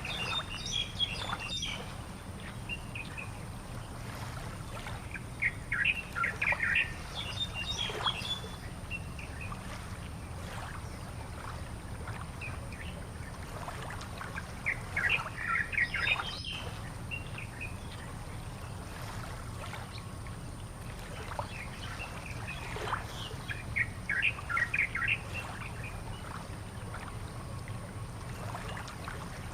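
Birds chirping in short bursts, four bouts of busy calls spaced several seconds apart, over a steady low rumble.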